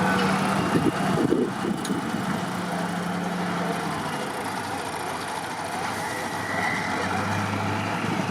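Heavy off-road trial truck engine running, its note coming and going as the load changes, with a few knocks about a second in.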